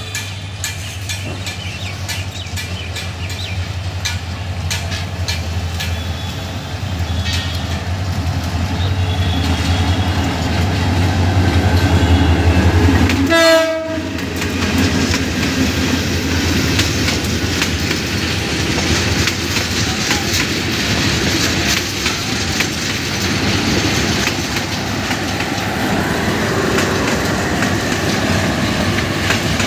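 Diesel locomotive of a passenger train approaching, its low engine drone growing steadily louder for the first half. After an abrupt break about halfway, the passenger coaches roll past with a steady rumble and wheels clattering over the rail joints.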